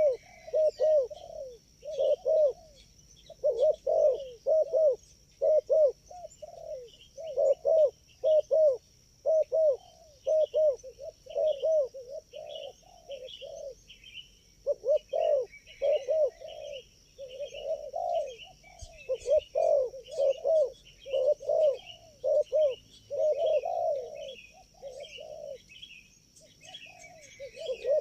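Spotted doves cooing over and over in quick, overlapping phrases, with small birds chirping and a steady high insect drone above.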